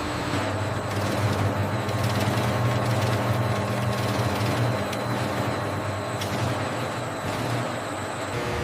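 Steady low mechanical hum with a noisy hiss over it, like machinery or a motor running.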